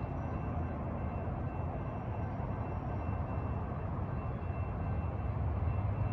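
Steady low rumble of a train at the station, slowly growing louder.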